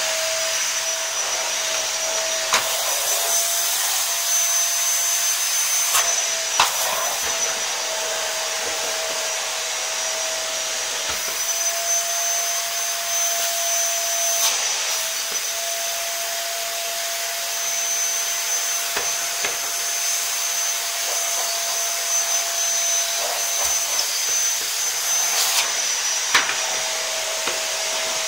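Vacuum cleaner running steadily with a constant airy whine whose pitch dips slightly now and then, and a few brief knocks.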